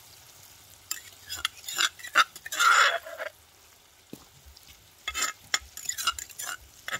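A metal ladle scraping and stirring food frying in a wok, with intermittent sizzling and a longer sizzling, scraping burst about two and a half seconds in. Short clinks and scrapes follow, with a spoon working in a small stone mortar near the end.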